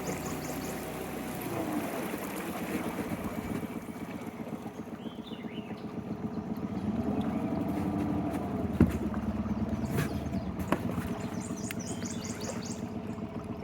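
Small outboard motor running slowly, its pitch sagging and rising again a couple of times. A bird chirps briefly, and two sharp knocks come about two-thirds of the way through.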